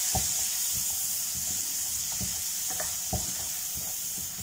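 Onion, tomato and spice masala sizzling in hot oil in a nonstick wok, a steady hiss, with a few taps of a silicone spatula against the pan as it is stirred.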